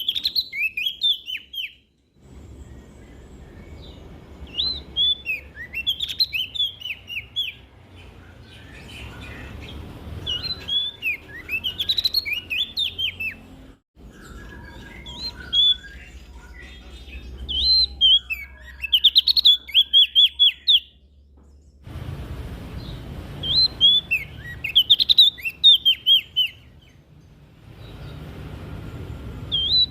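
Prenjak daun songbird singing: repeated short phrases of rapid, high, sweeping chirps, one every two to three seconds, with a low hum in the background in some stretches.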